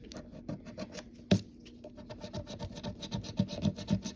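Scratch-off lottery ticket being scratched off in rapid short strokes, with one sharper tap about a second in. The strokes get busier in the second half.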